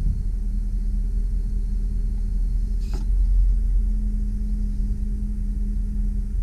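A 2001 GMC Sierra 3500 HD bucket truck's engine running steadily, powering the boom's hydraulics as the boom is extended. A steady hum rides over the low rumble and grows stronger about four seconds in, and a single sharp click comes about three seconds in.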